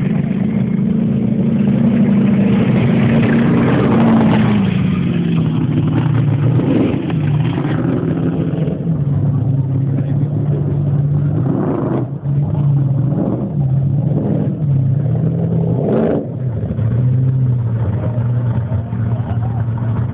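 Monster truck's engine revving: held at higher revs for the first few seconds, then dropping to a lower rumble broken by a series of short throttle blips.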